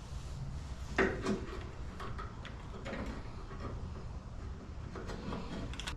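Knocks and clicks of appliance parts being handled: one sharp knock about a second in, then a few lighter clicks and knocks.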